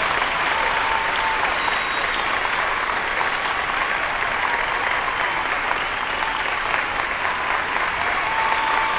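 Crowd applauding steadily, with cheering voices mixed in; a few held cheers rise above the clapping at the start and again near the end.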